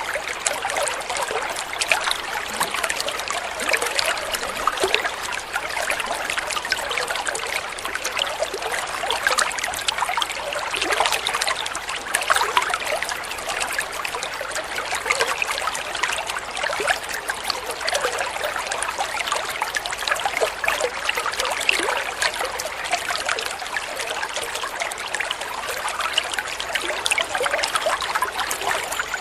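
Flowing water trickling and splashing steadily, a continuous light babble of small splashes with little deep rumble.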